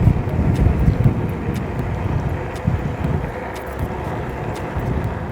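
Wind buffeting the microphone and the rumble of wide tyres on pavement as an electric bike is ridden at a little over 20 mph, a steady rushing noise with gusty low swells.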